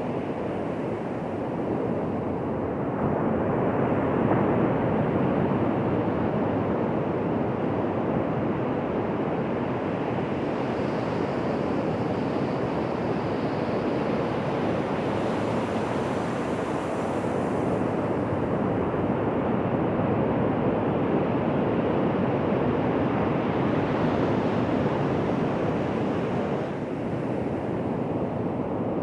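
Ocean surf breaking and washing onto a beach: a steady rush of waves that swells louder a few seconds in and rises and falls gently after that.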